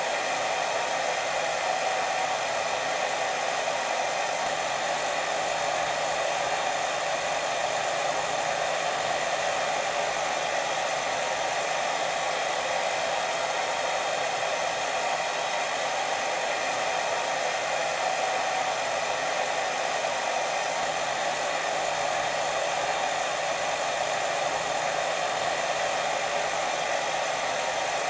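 Steady, unbroken white noise for sleep, a hair-dryer-like rush that is strongest in the middle range and never changes in level.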